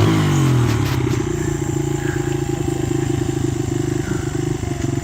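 Honda XR100 dirt bike's single-cylinder four-stroke engine: the revs fall away during the first second, then it keeps running steadily at a low idle.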